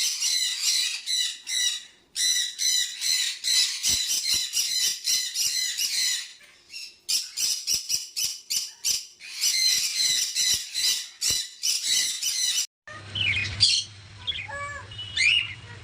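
Many small parrots screeching and chattering in a dense, rapid chorus. About thirteen seconds in it cuts to fainter, scattered chirps over a low steady hum.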